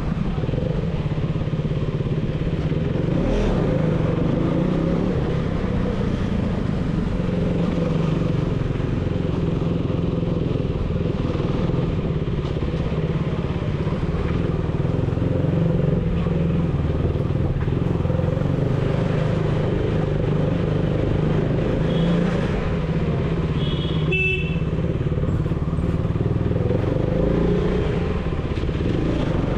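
KTM Duke 390's single-cylinder engine running through an aftermarket dual exhaust while the bike is ridden at a steady pace. A short high beep comes about three-quarters of the way through.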